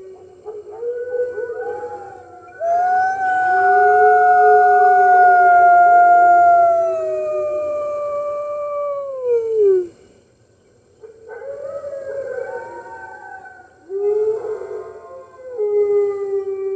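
A pack of wolves howling in chorus, several voices overlapping at different pitches. One long howl begins about three seconds in and slides down in pitch to end near the middle. After a brief lull the howls take up again.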